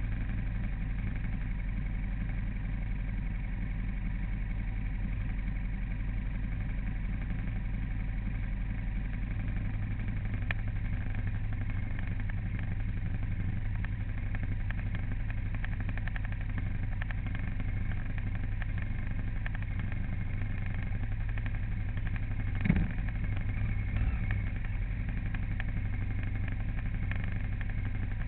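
A vehicle engine running steadily with a constant low hum. A single sharp knock sounds about three-quarters of the way through.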